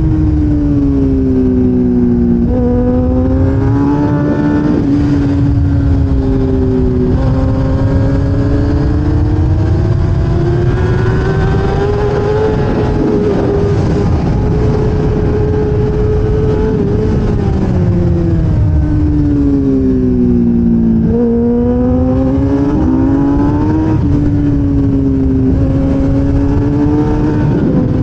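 1000cc race motorcycle engine recorded onboard at racing speed, its pitch stepping down through downshifts under braking near the start and again around two-thirds of the way in, and climbing through quick upshifts as it accelerates out, with high revs held steady in the middle.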